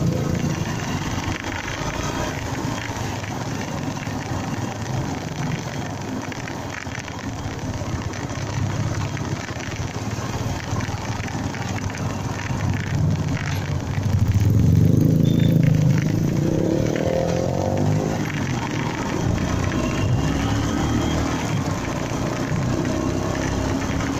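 Honda MegaPro Primus motorcycle engine running while riding, over a steady wash of riding noise. About fourteen seconds in, the engine note climbs in pitch and grows louder for a couple of seconds, as when accelerating.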